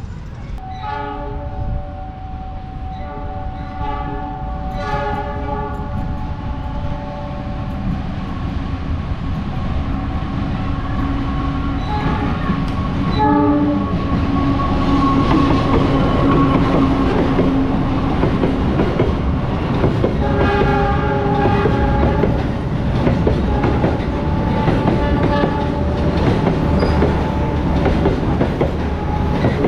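Indonesian railway train's air horn sounding a series of chord blasts, some short and some held long. The rumble of the locomotive and rolling cars grows louder from about halfway as the train comes through.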